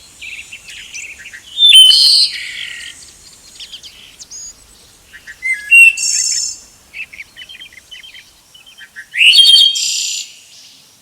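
Birds chirping and calling: three loud, high calls about two, six and nine and a half seconds in, with softer quick chirps in between.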